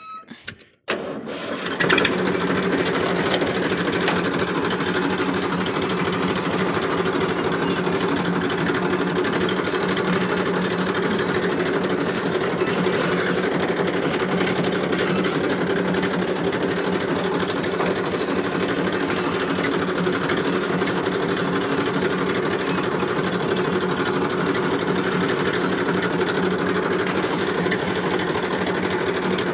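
Massey Ferguson tractor's diesel engine running steadily at an even speed, starting in about two seconds in after a brief quiet moment.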